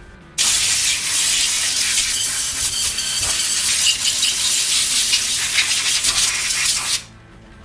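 Steady pressurised spray hissing on the freshly washed engine parts, starting suddenly and cutting off after about six and a half seconds.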